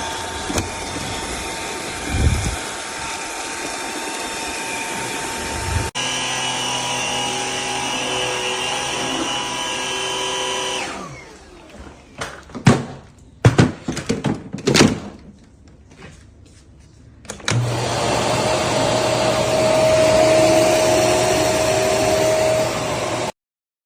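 Eureka RapidClean Pro cordless stick vacuum running steadily, then winding down about eleven seconds in. A few sharp knocks follow, then the vacuum runs again until it cuts off suddenly near the end.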